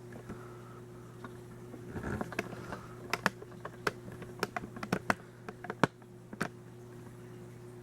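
Irregular light clicks and taps, a dozen or so, clustered in the middle few seconds, over a steady electrical hum.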